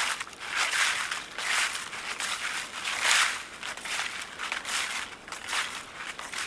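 Footsteps crunching through dry fallen leaves at a slow, steady walking pace, about one step every eight-tenths of a second.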